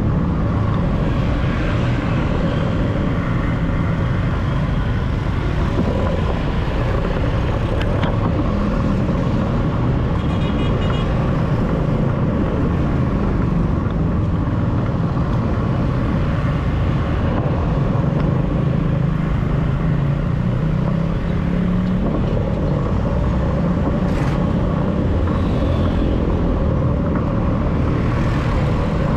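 City street traffic: the steady rumble of cars and motorcycles running alongside, with a short run of high beeps about ten seconds in.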